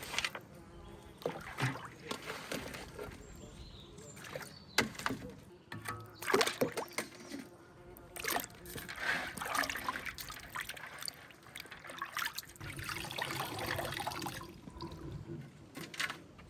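Water sloshing and trickling, with scattered clicks and knocks.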